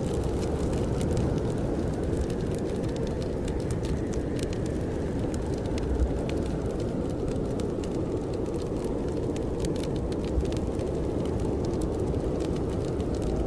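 Wood fire crackling in a fireplace with scattered sharp pops, over the steady low rush of strong blizzard wind.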